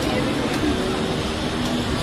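Steady road traffic noise: vehicles running on a street.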